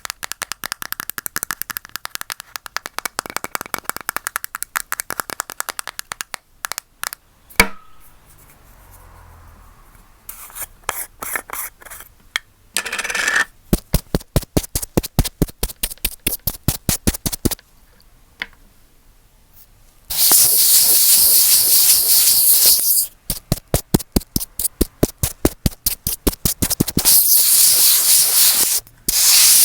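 Earphones used as a microphone, tapped, scratched and rubbed right against the mic: quick runs of sharp taps and clicks, broken by longer stretches of loud, hissy rubbing about two-thirds of the way through and again near the end.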